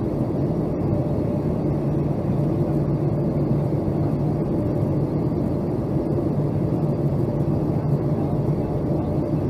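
Steady cabin noise inside a Boeing 757-200 airliner on descent: a constant drone of engines and airflow with a steady low hum running under it.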